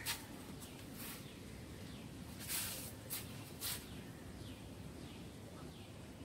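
Birds chirping faintly with short, repeated falling calls, and a few brief crackles from a plastic bottle being handled in the first four seconds.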